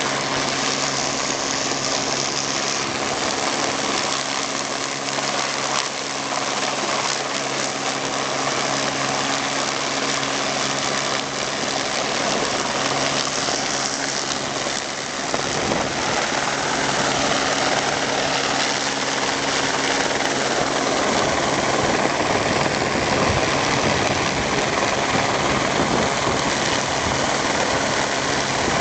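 A steady engine-like drone with a low hum and a wide hiss. About halfway through the hum briefly breaks, and after that the sound is a little louder and noisier.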